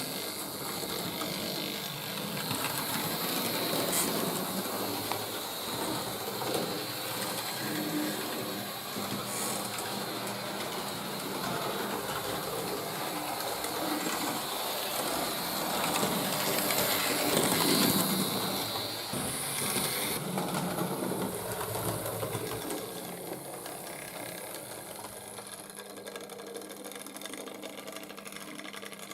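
Hornby Dublo early post-war tank engine running along the track, its freshly re-magnetised horseshoe-magnet motor whirring and its gears and wheels rattling. It grows louder to a peak about two-thirds of the way through, then fades.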